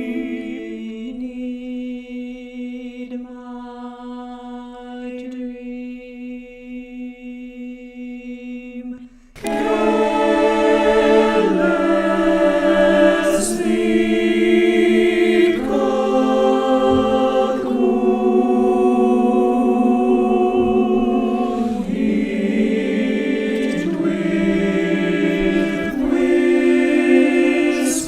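A cappella choir singing. For about nine seconds the voices sing quietly on a held low note, then the full choir comes in suddenly, much louder, with sustained chords that change every second or two.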